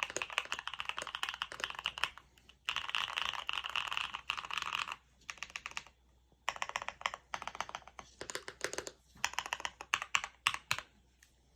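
Typing on a Bakeneko60 mechanical keyboard with BSUN First Love switches, an FR4 plate and PBT keycaps: fast, continuous runs of keystrokes, broken by short pauses about two and five seconds in, then shorter clusters of separate key presses.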